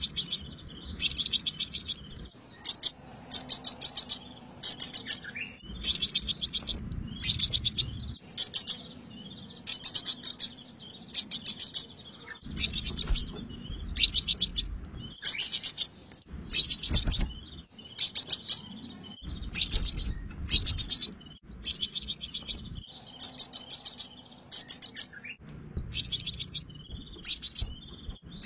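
Sunbird song used as a trapping lure call: repeated bursts of rapid, high-pitched chipping trills, one burst every second or two.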